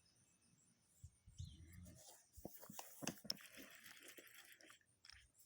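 Near silence, with faint scattered clicks and a brief soft hiss about three seconds in.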